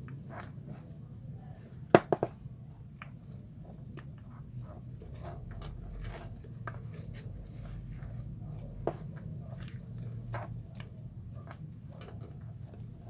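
Small clicks, scratches and rubbing of hand work rewinding copper wire onto a pole of a motorcycle charging-coil stator, with a sharp cluster of three taps about two seconds in and another tap near nine seconds, over a steady low hum.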